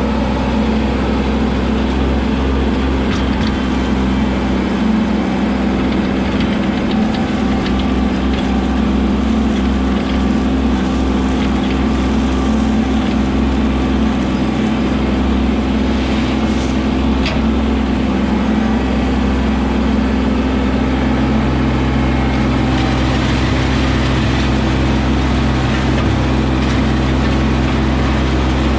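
Kubota LX2610 compact tractor's three-cylinder diesel engine running steadily as the tractor travels at low speed, its note shifting slightly about twenty seconds in.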